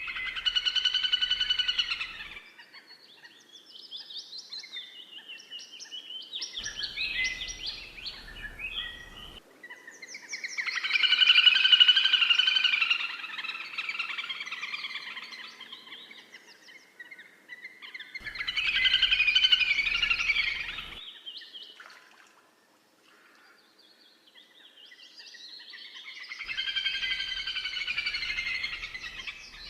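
Birds chirping and trilling in spells of a few seconds each, the loudest in the middle, with quieter gaps between them.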